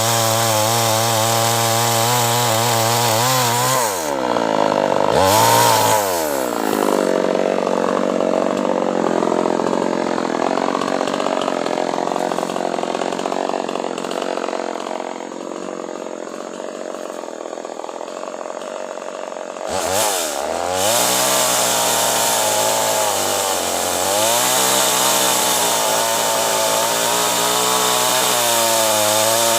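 A two-stroke chainsaw running hard while cutting acacia wood. Its engine note drops and climbs again about four seconds in and turns rougher and quieter through the middle. About twenty seconds in it comes back louder, its pitch rising and sagging as the chain works through the wood.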